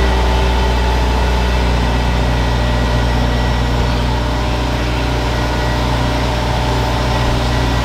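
Honda S2000's four-cylinder engine idling steadily, its pitch even throughout.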